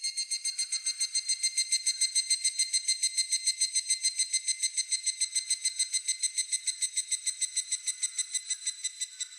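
Higurashi (evening cicada) calling: one long, rapid series of ringing pulses, the 'kana-kana-kana' song, tapering off near the end.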